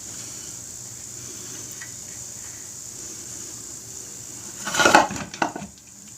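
Steady faint hiss, then a short burst of metallic clattering and knocking about five seconds in, as metal parts shift and knock together during a motorcycle engine removal.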